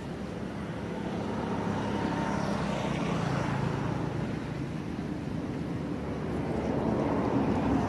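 An engine droning steadily, with a low hum that shifts slightly in pitch.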